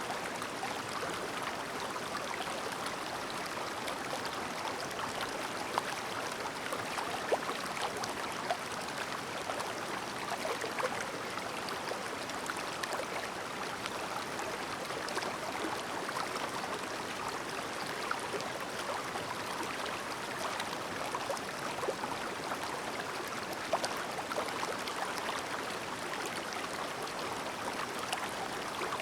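Clear shallow river burbling steadily over stones, a continuous babble with small splashes and gurgles scattered through it.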